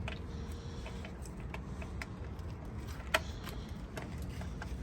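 Scattered light metallic clicks and clinks from hand tools and engine parts during an engine swap, with one sharper click about three seconds in, over a steady low rumble.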